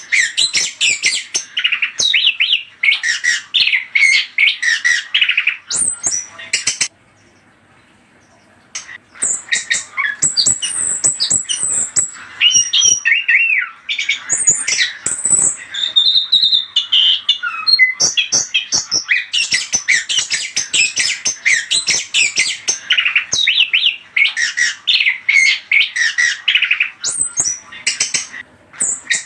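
Chestnut-capped thrush (anis kembang) singing a fast, varied song of chattering and whistled notes, broken by a pause of about two seconds around seven seconds in.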